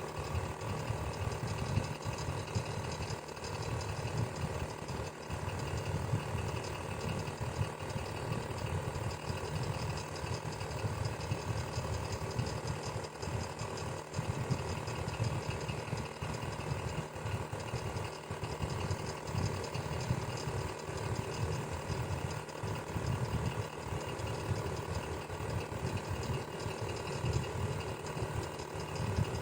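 Electric fan running steadily: a low whirring hum with a fast, even flutter from the spinning blades, and faint steady motor tones above it.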